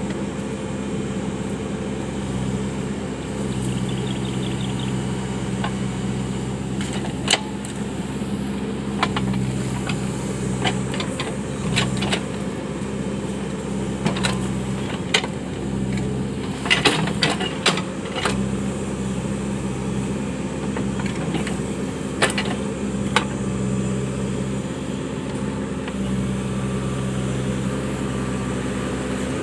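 Case 580 backhoe loader's diesel engine running steadily under work, with sharp knocks every few seconds, clustered most around the middle.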